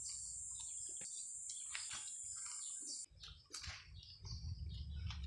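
Birds chirping over a steady high-pitched buzz that stops suddenly about three seconds in, after which a low rumble comes up.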